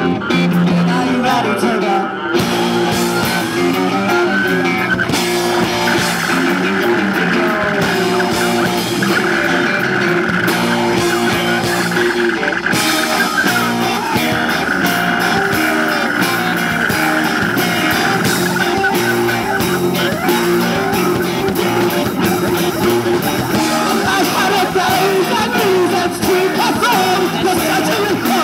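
Rock band playing live, guitar-led, at a steady loud level.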